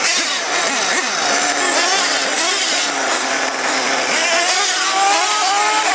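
Several radio-controlled monster trucks and truggies racing, their motors revving and easing off together so the overlapping whines rise and fall in pitch.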